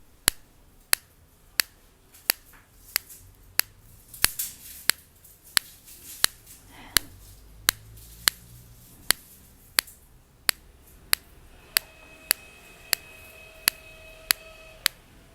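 Sharp clicks repeating evenly, about three every two seconds, with a faint steady tone coming in for the last few seconds.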